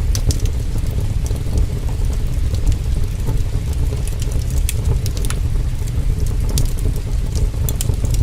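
Heavy rain as a steady, deep rumbling wash, with a wood fire crackling over it in scattered sharp pops and ticks.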